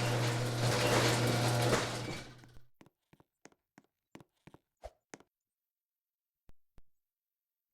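Ceiling fan running with a steady electrical hum and air noise that stops about two and a half seconds in, followed by a string of light clicks and ticks, with two more near the end.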